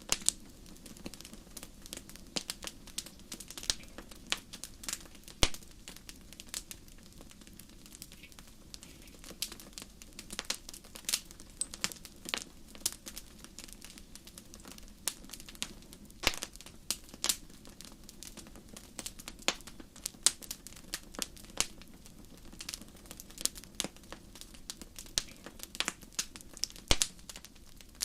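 Campfire burning, the wood crackling with many irregular sharp pops of varying loudness over a soft, steady low background.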